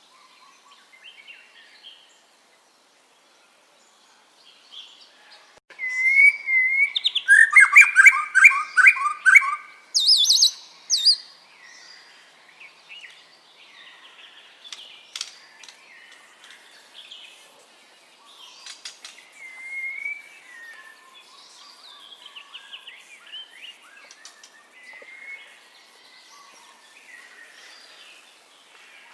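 White-rumped shama singing: after a brief quiet start, a loud run of rapid repeated whistled notes and trills, then softer, varied phrases.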